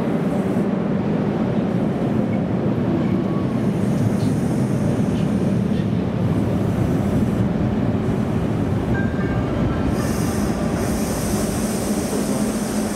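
Corail passenger coaches of a CP locomotive-hauled train rolling along the platform of an enclosed underground station, a steady rumble of wheels on rail. A high hiss joins about ten seconds in as the train slows to stop.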